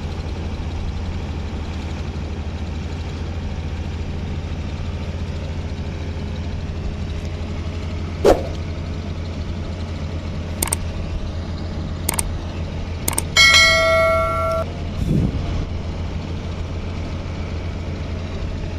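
A heavy vehicle engine runs with a steady low drone throughout. Over it come a sharp knock about eight seconds in, a few lighter clicks, then a metallic clang that rings for about a second, followed by a dull thud.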